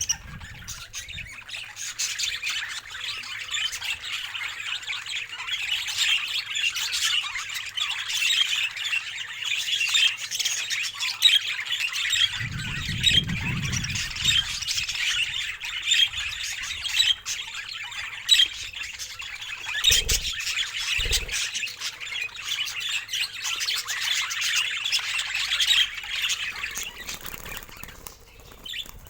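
Budgerigars chattering and warbling, a busy, continuous stream of short chirps and squawks. A low rumble about twelve seconds in and two soft thumps around twenty seconds break in underneath.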